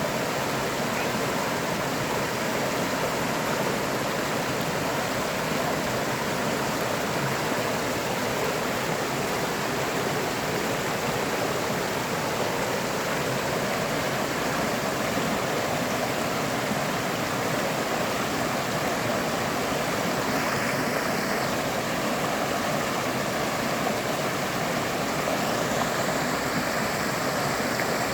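River water flowing steadily over its bed, an even rushing sound.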